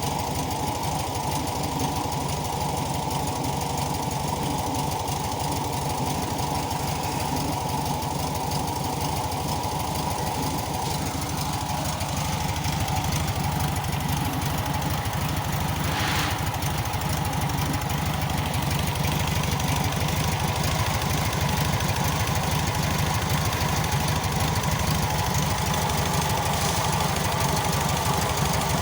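Volkswagen Beetle 1300cc air-cooled flat-four engine running steadily with an even pulsing beat, getting slightly louder about halfway through. A brief hiss cuts in once, about sixteen seconds in.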